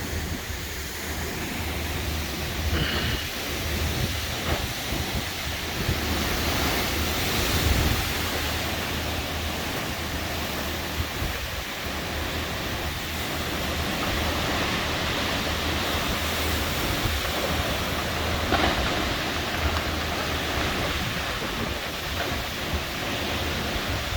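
Strong thunderstorm winds and rain: a steady noisy rush that swells and eases in gusts.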